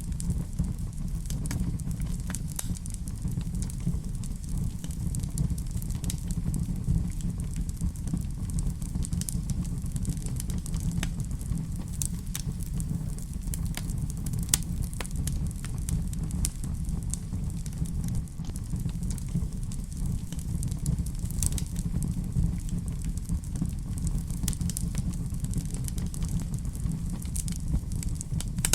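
Wood fire crackling in a fireplace: a steady low rumble with scattered sharp pops and crackles.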